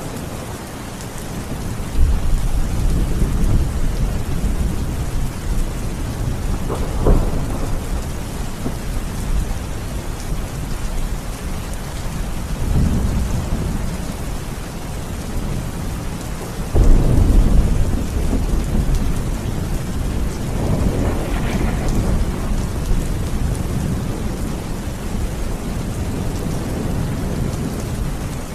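Steady heavy rain falling, with rolls of thunder: a deep rumble about two seconds in, a sharper, louder one a little past halfway, and lighter rumbles between.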